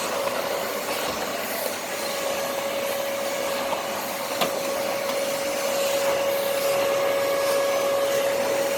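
Numatic James cylinder vacuum cleaner running steadily: a rush of air with a steady whine from the motor, and a single short click about four and a half seconds in.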